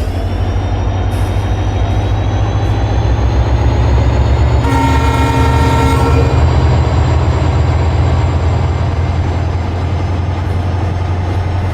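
Train running past with a steady heavy rumble, and a train horn sounding once for about a second and a half, about five seconds in.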